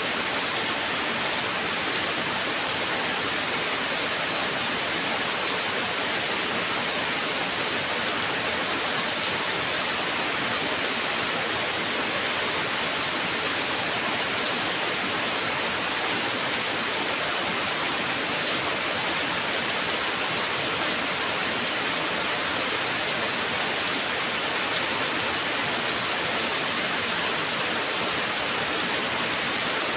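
Heavy rain falling steadily, a dense even hiss of drops on surfaces without a break.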